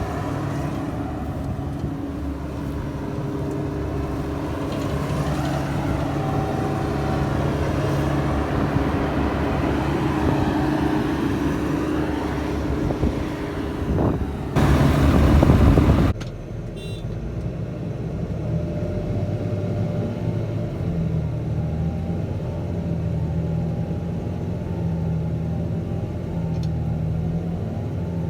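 Heavy diesel engines of a forage harvester and tractor running steadily under load while chopping maize. A louder rushing noise comes in for about a second and a half around the middle and cuts off sharply, after which the engine sound is quieter, at a different pitch.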